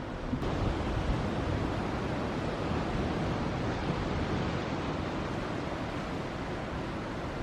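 Ocean surf: waves breaking and washing in a steady roar of noise, with wind buffeting the microphone. The sound steps up suddenly about half a second in.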